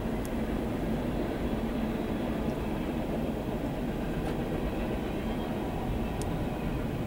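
Covered hopper cars of a CSX freight train rolling past, a steady low rumble with a few faint ticks.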